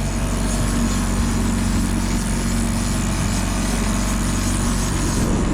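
Boat engine running steadily at trolling speed, a constant low hum under a steady hiss.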